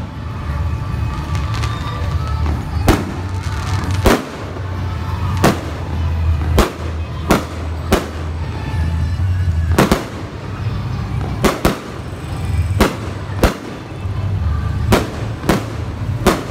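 Aerial firework shells bursting overhead: a string of sharp bangs at uneven spacing, about one a second, over a steady low drone.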